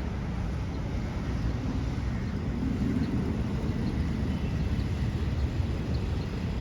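Steady low outdoor rumble, with a low hum that swells briefly about two and a half seconds in.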